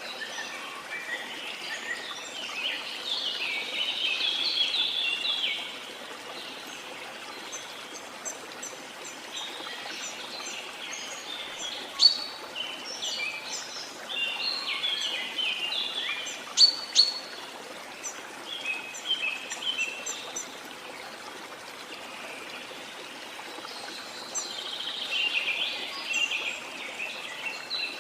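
Small birds chirping and twittering in bursts over a steady wash of water, with a few sharp, louder notes about halfway through.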